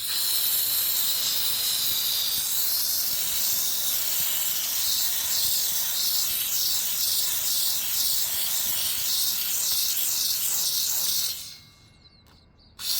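Steam cleaner jetting steam in a steady, loud hiss. It cuts off about eleven seconds in and starts again just before the end.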